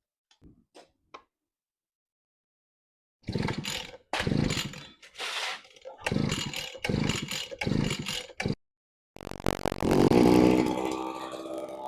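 Small brush cutter engine firing in several short bursts that die away, then catching about nine seconds in and running, revving up and easing back.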